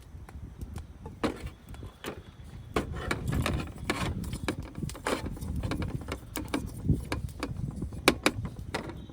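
Wind buffeting the microphone as a rumble, with irregular clicks and knocks throughout that grow busier from about three seconds in.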